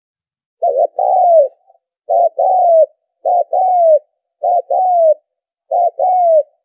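Spotted dove cooing: five calls about 1.2 seconds apart, each a short coo followed by a longer coo that falls in pitch. It is the dove call played by trappers to stir their decoy birds.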